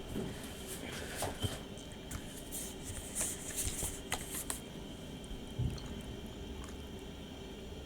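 Faint rustling and light clicks of packaged toiletries being handled, with a spell of crinkly rustling about three to four seconds in.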